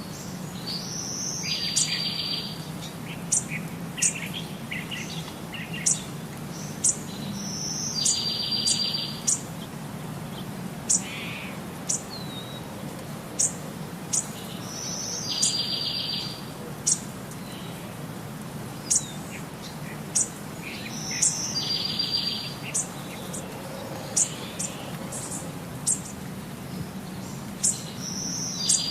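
A bird singing the same phrase over and over, about every six to seven seconds: a short high note followed by a buzzy trill lasting about a second, with short sharp chirps in between. A steady low hum runs underneath.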